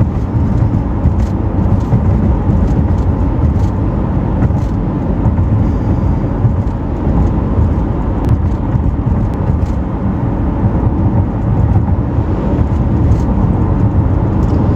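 Car driving along: steady road and engine noise, a low, even rumble with a few faint ticks.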